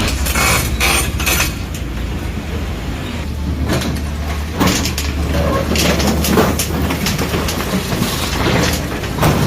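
Heavy demolition machinery running, its engine a steady low hum, with irregular clanks and knocks throughout.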